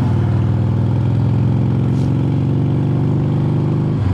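2005 Harley-Davidson Heritage Softail Classic's V-twin engine and exhaust running steadily while riding, its note briefly dipping near the end.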